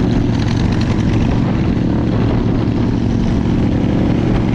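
Motorcycle engine running at a steady speed while riding, a continuous low drone with no change in pitch.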